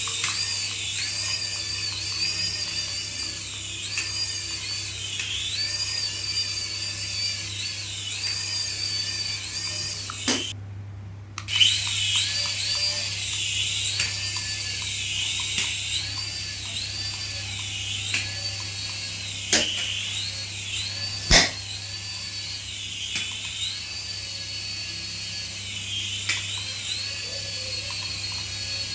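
Small electric motor of a remote-control toy whining at high pitch, swelling and falling again and again. It cuts out briefly about ten seconds in and starts again with a click, with a few more sharp clicks later.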